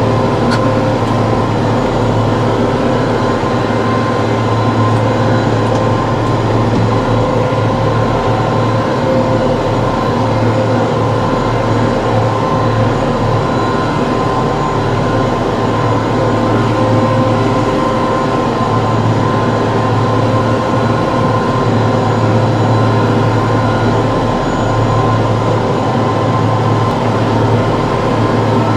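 TYM T654 tractor's diesel engine running steadily at working speed, an even, unbroken mechanical hum with no changes in pace.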